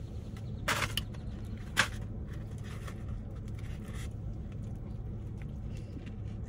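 Close-miked chewing and mouth noises of someone eating a grinder-salad sub sandwich, with a few short crackles about a second in and again near two seconds, over a steady low hum.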